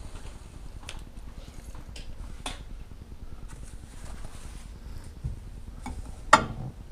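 Scattered light clicks and knocks of kitchen items being handled, with one louder sharp knock about six seconds in, over a steady low hum.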